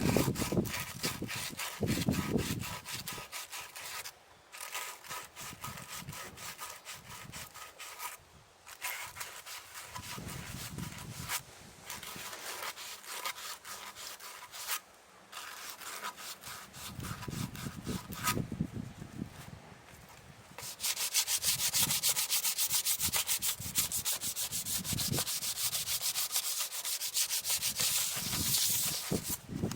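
Quick repeated scrubbing strokes worked back and forth, with a few short pauses, growing louder about two-thirds of the way through.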